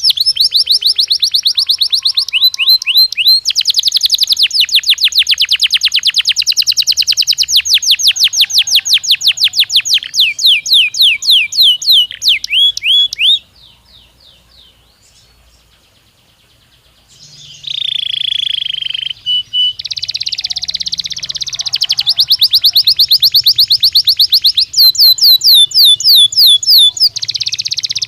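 Canary singing: fast trills of rapidly repeated high notes. About halfway through there is a pause of roughly four seconds, then a held note and more rolling trills.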